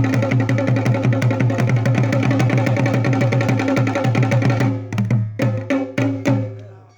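Nagara kettle drums beaten in a fast, even roll, ringing as they go; about two-thirds in the roll breaks into a few separate strokes, then the ringing dies away.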